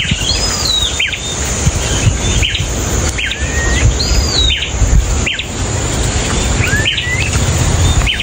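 Birds calling: short whistled notes that swoop down and up, repeated several times, over a steady high hiss and a low rumble.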